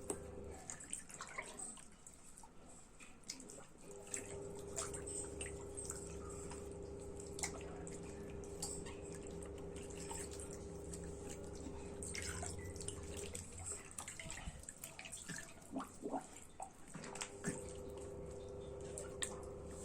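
Water dripping and splashing lightly in irregular clicks, over a steady hum that cuts out and comes back twice.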